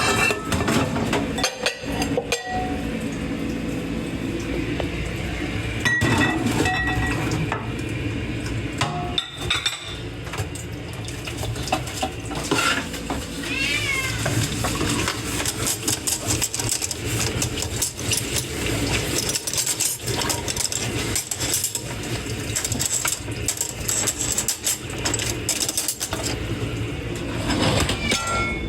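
Dishes and cutlery clinking and clanking against each other as they are washed by hand in a sink, with many small knocks throughout. A cat meows faintly once about halfway through.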